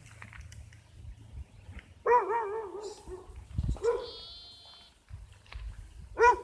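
Sheep or goat bleating: a long, wavering bleat about two seconds in, a short bleat near four seconds, and a short, loud bleat near the end.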